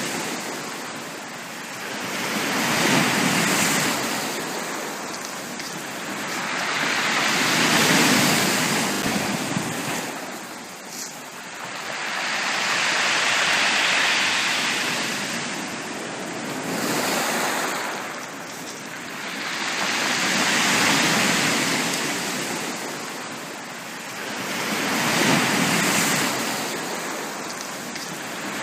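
Sea waves breaking and washing on a beach, the surf swelling and ebbing about every five seconds.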